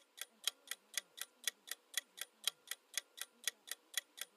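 Quiz countdown-timer sound effect: a clock ticking steadily, about four ticks a second, over a faint low tone.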